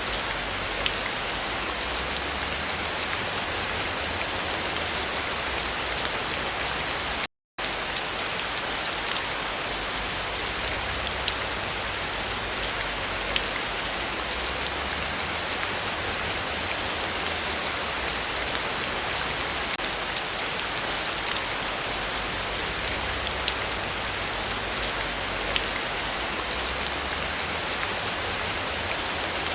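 Heavy rain falling steadily, a dense hiss of drops with fine ticks of individual drops. The sound cuts out completely for a fraction of a second about seven seconds in.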